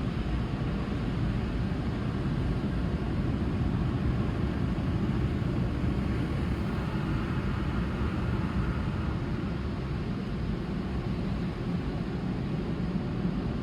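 Steady low rumbling noise of automated car wash tunnel machinery, with the tire-cleaning brushes running. A faint whine rises and falls in the middle.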